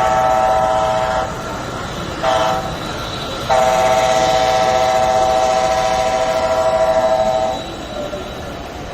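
Multi-tone train horn, as played through a model locomotive's sound system: the end of a long blast, a short blast, then a long blast of about four seconds. A steady hall murmur sits underneath.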